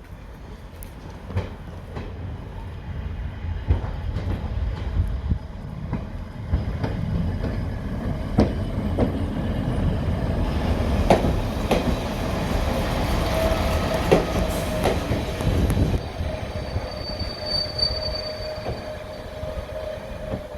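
Diesel train passing on a heritage line: a building low rumble with repeated clicks of wheels over rail joints, a steady tone through the second half, and a brief high-pitched wheel squeal near the end.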